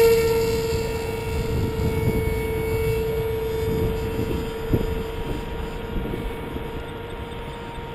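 Electric motor and pusher propeller of a Ritewing Zephyr II flying wing running at a steady high-pitched whine under throttle, gradually fading as the plane flies away after launch. A low rumble of wind noise sits underneath.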